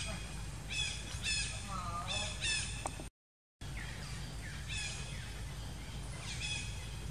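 A bird calling over and over in short calls, roughly one every half second to a second, over a steady low background. The sound cuts out completely for about half a second a little after three seconds in.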